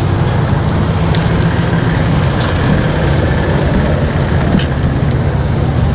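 Car engine running steadily with a low rumble, with a few faint ticks over it.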